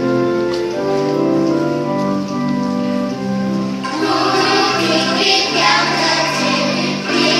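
Angklung ensemble playing held, shaken chords, joined about four seconds in by a children's choir singing.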